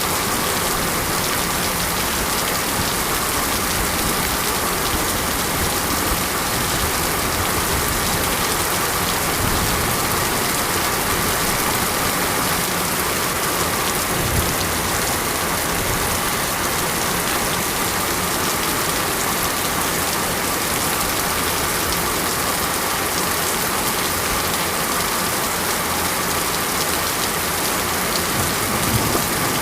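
Steady monsoon rain falling, an even hiss that holds without a break.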